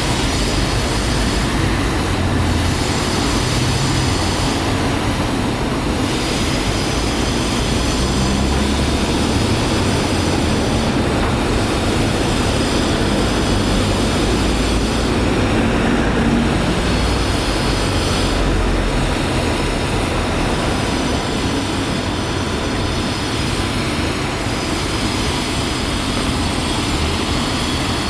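Steady, loud city noise: a low rumble of traffic and passing trains with no single sound standing out.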